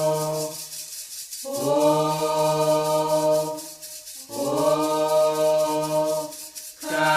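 Voices chanting a Candomblé Ketu song for Xangô in three long held notes with short breaks between them. Over them a hand rattle is shaken in a steady beat, about four or five strokes a second.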